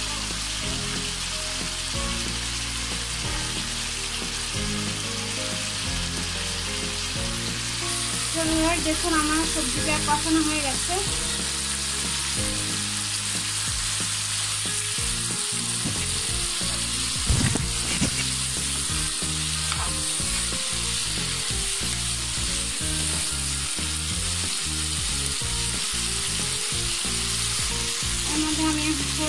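Cut amaranth stems and potato sizzling in spiced oil in a wok, stirred with a wooden spatula, with a steady frying hiss.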